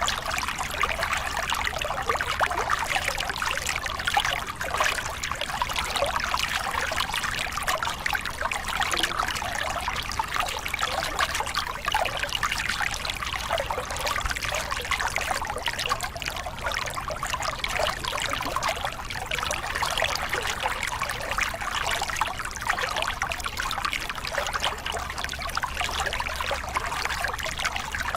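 A small river cascade: water spilling and splashing over rocks in a steady, unbroken rush.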